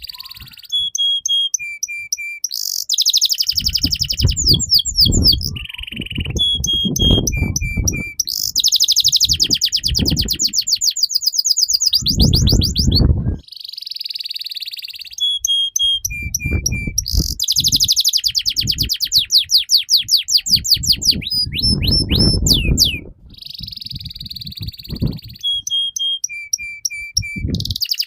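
Domestic canary singing continuously: fast trills and rolls, runs of short flat notes and quick rising whistles. The same sequence of phrases repeats about every 14 seconds, with a low rumble under some of the longer rolls.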